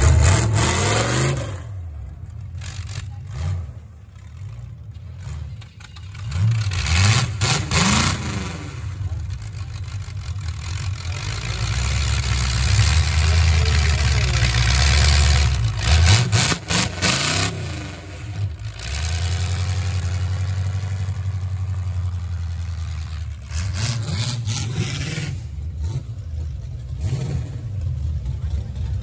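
Demolition derby car engine running and idling, revved up several times with a rising pitch.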